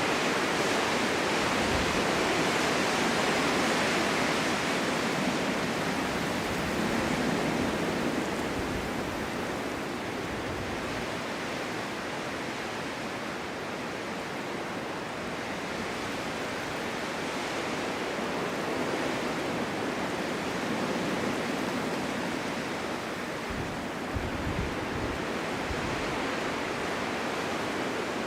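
Winter wind blowing through a snowstorm: a steady rushing that slowly swells and eases, with a few low rumbling gusts near the end.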